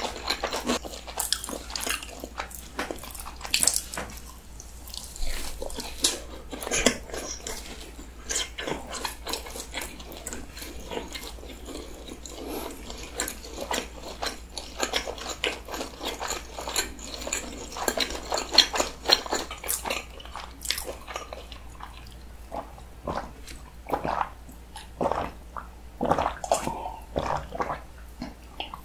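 Close-miked chewing of fried snack food: wet mouth sounds with many small clicks and smacks.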